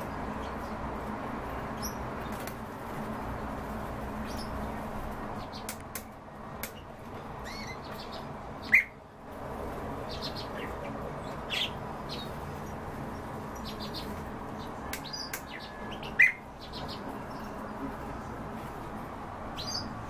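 Several cage birds calling: scattered short, high chirps, with two loud, sharp calls about nine and sixteen seconds in, over a steady low background hum.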